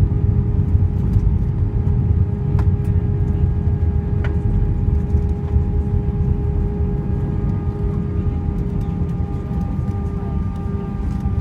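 Inside the cabin of an Airbus A320 rolling on the ground after landing: a steady low rumble from the wheels and airframe, with the engines' steady whine above it. The noise eases slightly in the second half as the aircraft slows.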